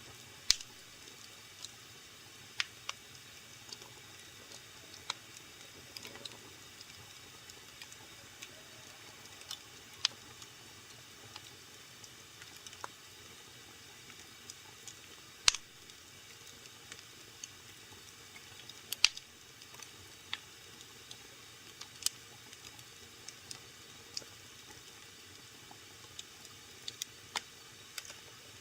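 Wood fire burning in a fireplace: a faint steady hiss with irregular sharp pops and crackles, a few of them much louder than the rest.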